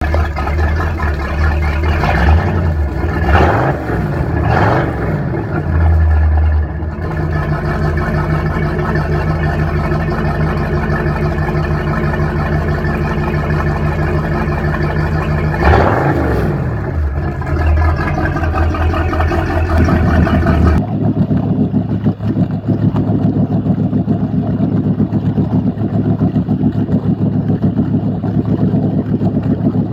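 Ski Nautique ski boat's inboard engine running through its exhaust at idle, with a few quick revs up and back down early on and one more about halfway. About two-thirds of the way through the sound changes abruptly, losing its higher part and settling into a lower, rougher tone.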